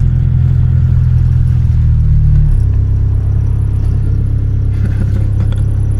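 Car engine running under way, a K24 inline-four in a Honda Civic, steady and loud, with its note changing about halfway through.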